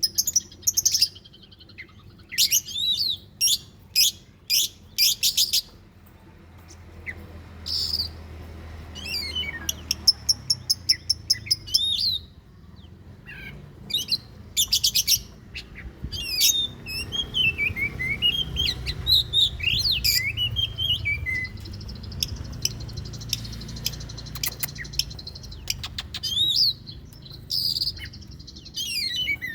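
Oriental magpie-robin (kacer) singing, an excited lure-type song of varied whistled phrases, rapid chirp series and trills with short pauses between them.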